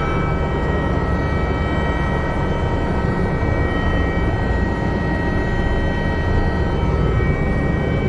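Helicopter running: a loud, steady rumble with a thin high turbine whine held over it.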